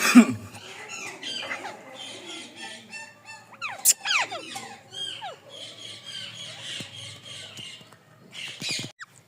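Ringneck parrot chattering and squawking in a speech-like way, with a few quick falling whistles about four seconds in.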